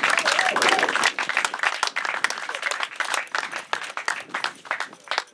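A crowd of people clapping, dense at first and thinning out toward the end.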